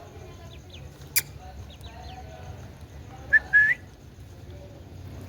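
Indian ringneck parrot giving two short, high whistled notes, the second a little longer and rising slightly. A single sharp click comes about a second in.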